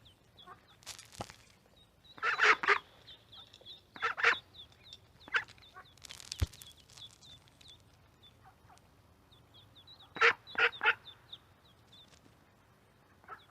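Duck quacking in short runs of loud calls, a few seconds apart, over a steady string of high, short peeps from ducklings. There are two brief noisy bursts, one about a second in and one midway.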